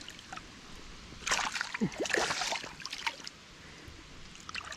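Water splashing and sloshing as a hooked smallmouth bass is brought to hand, in bursts over a couple of seconds starting about a second in, then a few short splashes near the end.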